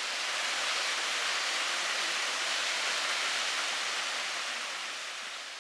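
Waterfall pouring into a gorge pool: a steady, even rush of falling water that fades away near the end.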